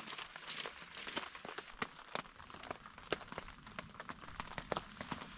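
Rain on a tent's fabric: irregular sharp taps of drops, several a second, over a soft hiss.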